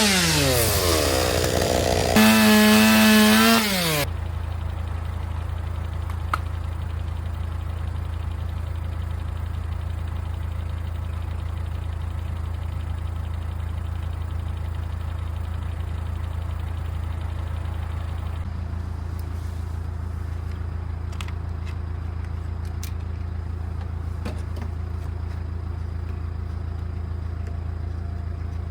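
Chainsaw revved to full throttle and let wind down, twice in the first four seconds, then a steady low engine hum with a few faint clicks.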